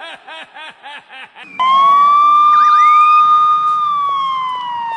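A rapid string of short, high chirping sounds, about four a second. About a second and a half in, a loud police siren cuts in suddenly, holds one steady note, then slowly falls in pitch.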